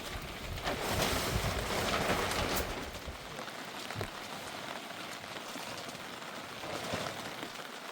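Rain falling steadily, louder for about the first three seconds with a low rumble underneath, then lighter and even.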